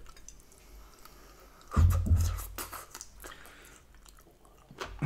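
Biting into and chewing a cooked asparagus spear close to the microphone: a loud low bump about two seconds in, then a second or so of wet clicking chews.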